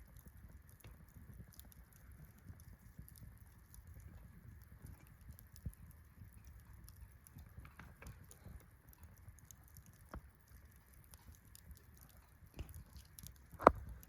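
Wood campfire crackling, with scattered small pops and snaps and one louder pop near the end.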